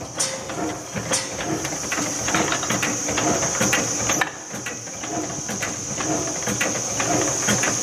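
Otto-cycle (four-stroke) engine running, with a busy mechanical clatter of clicks over a steady high-pitched hiss that cuts out briefly about four seconds in.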